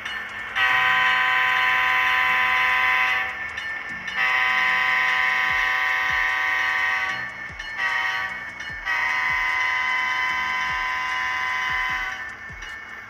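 Sound-decoder diesel horn of an HO scale RS1 model locomotive sounding the grade-crossing signal through its small speaker: two long blasts, a short one, then a long one.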